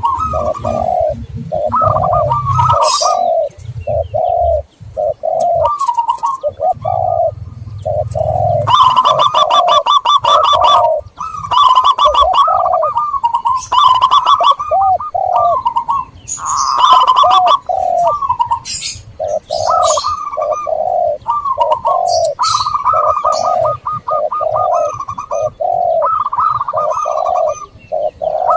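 Zebra doves and spotted doves cooing steadily in repeated rounds of soft, low notes, with bursts of higher, quicker chirping mixed in several times.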